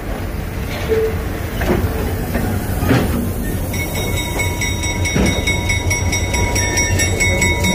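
Railroad passenger cars rolling slowly past on jointed track: a steady low rumble from the steel wheels, with a few separate clicks as the wheels cross rail joints. A steady high-pitched whine joins a little over halfway through.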